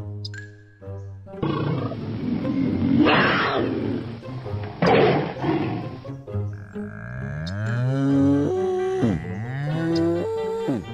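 A lion roaring, rising to two loud roars about two seconds apart, then cattle lowing in long calls that slide up and down in pitch.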